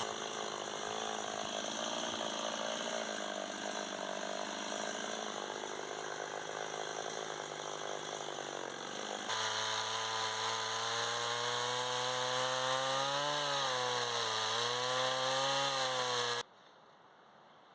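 Chainsaw running and cutting wood, its engine pitch dipping and wavering as the chain bites, then cutting off abruptly near the end.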